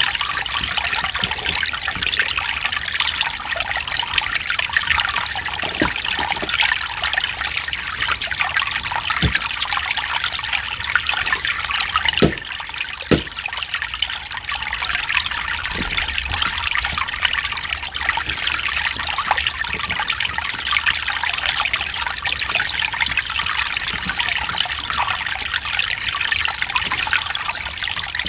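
Mountain stream water trickling and splashing over rocks, a steady dense wash with brief louder splashes here and there, a few of them about 9, 12 and 13 seconds in.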